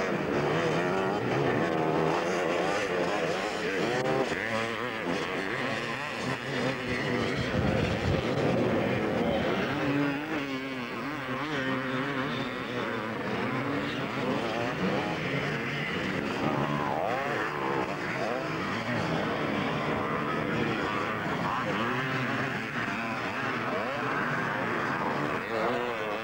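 Several 250cc motocross bikes racing, their engines revving up and down over one another as they accelerate and shut off around the track.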